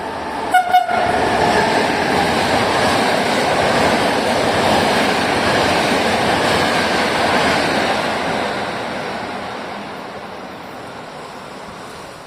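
A train passing, its noise building up, holding for several seconds and fading away, with two short horn toots about half a second in.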